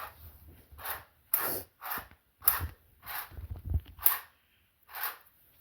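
Scissors snipping through curtain fabric in short cuts, about two a second.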